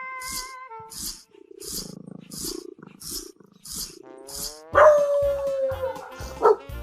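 Background music with a steady beat; about two-thirds of the way in, an animal gives one loud call falling slightly in pitch, then a short sharp call near the end.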